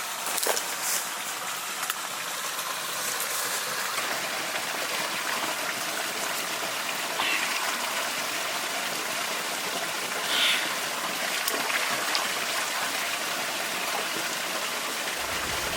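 Steady hiss of running water, with a few short higher sounds over it. Music comes in right at the end.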